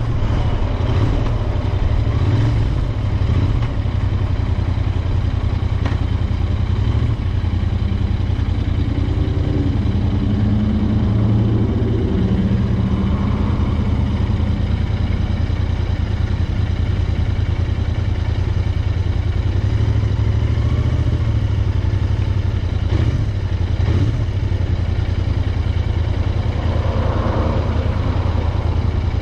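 Royal Enfield Interceptor 650's 648 cc parallel-twin engine running steadily, a continuous low exhaust rumble.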